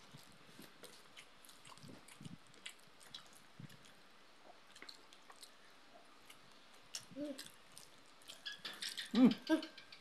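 Close-up mouth sounds of people eating boiled pork and rice by hand: faint chewing with scattered small wet smacks and clicks. Near the end a short burst of voice, just as laughter begins.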